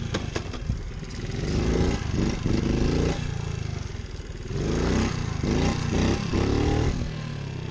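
Pit bike engine revving up in two long surges and easing off between them as the rider pulls wheelies. A few sharp clicks sound right at the start.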